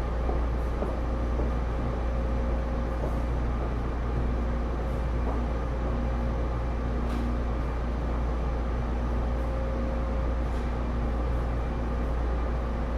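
Steady hum and low drone of a Taipei Metro C301 metro car's onboard equipment, with a constant mid-pitched tone and no rising or falling pitch.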